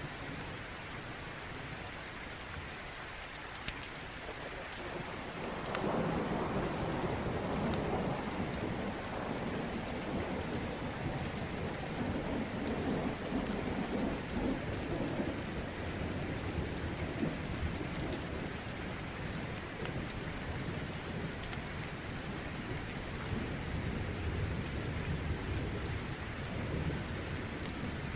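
Steady heavy rain falling, with a roll of thunder that breaks in suddenly about six seconds in and rumbles, slowly fading, for some ten seconds.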